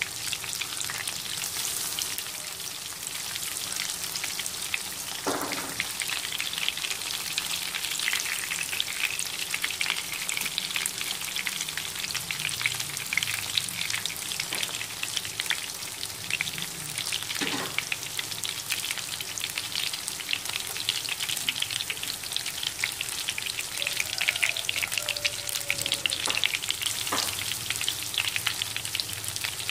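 Panko-breaded pork cutlets shallow-frying in hot oil in a pan: a steady crackling sizzle. A few brief knocks sound as the cutlets are moved and turned with chopsticks.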